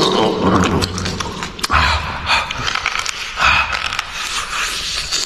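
Close-up eating sounds: chewing and gnawing on tough, sticky braised beef hoof skin, with irregular wet mouth smacks, sucking and clicks.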